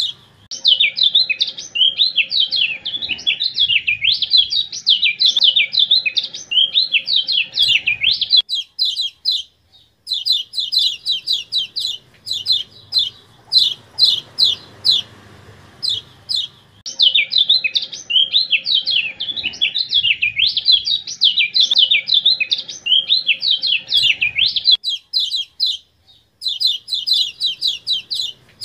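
Kecial kuning (Lombok white-eye) masteran song: two long spells of fast, jumbled high warbling, each followed by a string of short, sharp chip calls repeated in quick succession. The sequence repeats like a loop.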